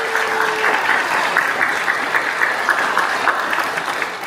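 Congregation applauding: a dense patter of many hands clapping that thins out near the end.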